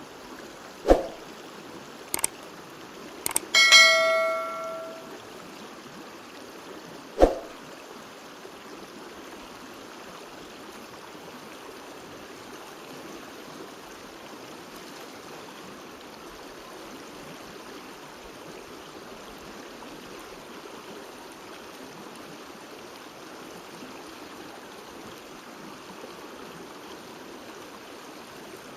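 A stream running steadily, with a few sharp knocks and, about three and a half seconds in, a struck metal object ringing for about a second before it fades.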